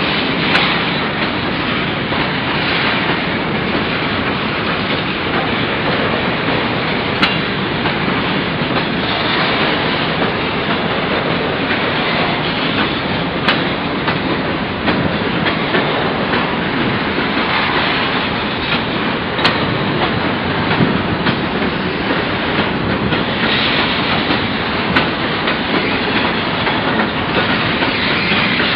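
Freight train covered hopper cars rolling past: a steady noise of steel wheels running on rail, with a sharp click every few seconds.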